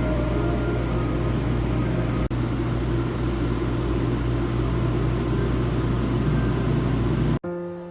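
Steady low running rumble of a moving train, with a brief break about two seconds in; it cuts off suddenly near the end.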